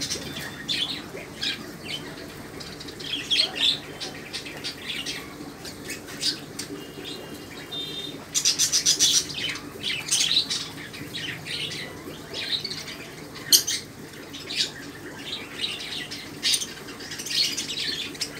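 Birds chirping irregularly in short calls over a faint, steady low hum.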